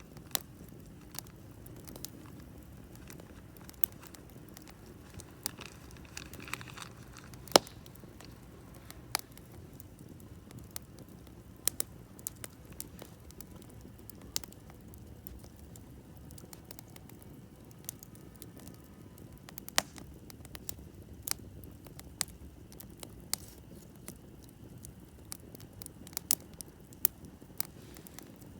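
Campfire crackling: irregular sharp pops and snaps over a low, steady rumble of the burning fire, with one loud pop about a quarter of the way through.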